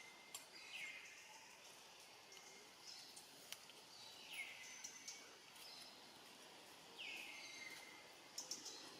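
Faint outdoor ambience with a bird calling: three short calls, each sliding down in pitch and then holding briefly, spaced about three seconds apart. A few brief high chirps fall between them.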